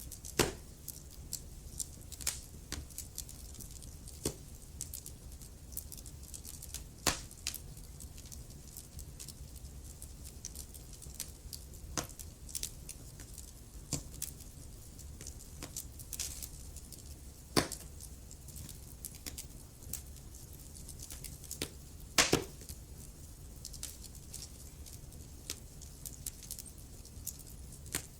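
Wood fire crackling in a fireplace: irregular sharp pops and snaps over a low steady rumble, with a few louder pops, the loudest about twenty-two seconds in.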